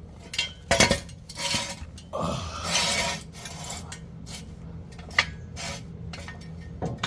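Metal objects clinking and clattering while tools and parts are handled, a few sharp knocks at uneven intervals, with a scraping rub of metal about two to three seconds in.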